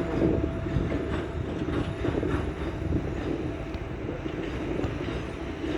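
2M62 diesel locomotive train on the move: a steady rumble with a few scattered wheel clicks on the rails.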